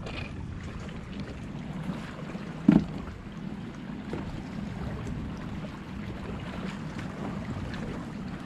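Wind buffeting the microphone over steady water and boat noise, with one sharp knock nearly three seconds in.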